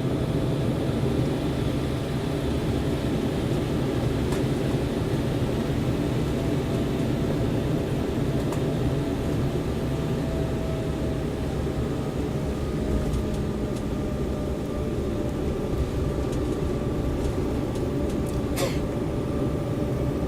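Steady cabin noise of an Embraer 190 airliner, with its GE CF34 turbofan engines running: a deep rush with a faint steady engine tone above it, and a few faint clicks.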